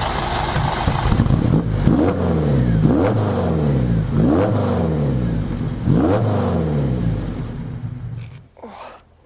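Ferrari 308 GTB Group 4 rally car recreation's V8 engine running just after a start, blipped four times, the revs rising sharply and falling back each time. The engine sound falls away near the end.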